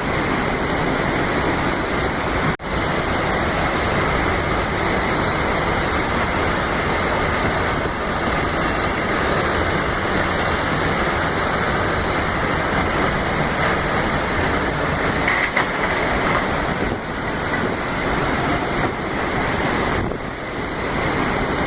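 Heavy cyclone rain and strong storm wind, a loud, steady rush of noise, broken by a brief cut about two and a half seconds in.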